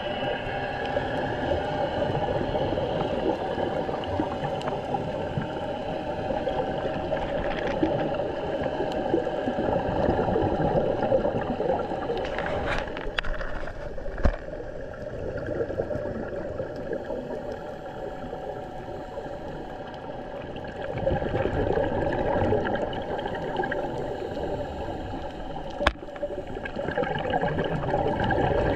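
Gurgling, rushing water heard during a scuba dive, a steady wash that swells and eases, with a sharp click midway and another late on.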